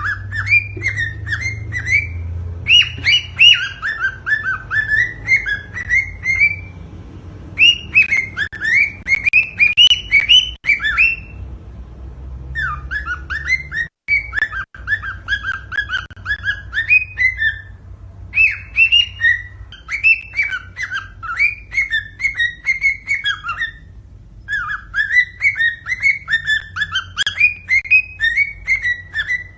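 Cockatiel singing: a warbling string of quick, chirping whistled notes, in bouts of a few seconds separated by short pauses.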